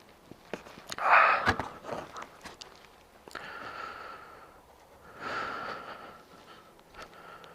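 A man's heavy, breathy exhales and sighs close to the microphone, three of them, the first and loudest about a second in. Small clicks and knocks of handling come in between.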